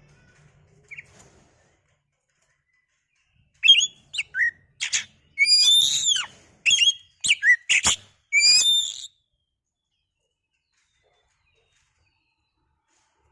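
Oriental magpie-robin (kacer) singing a quick run of varied whistled and chirping notes, starting about four seconds in and lasting some five seconds before it stops.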